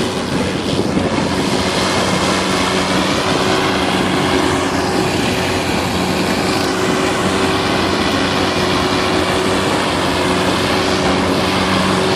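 Pulling tractor's engine running loud and steady, with an even, unbroken drone.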